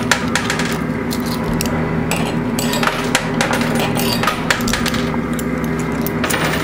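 Quarters clinking and clattering in a coin pusher machine, with frequent sharp clicks as the coins drop and are shoved along the shelf, over a steady machine hum.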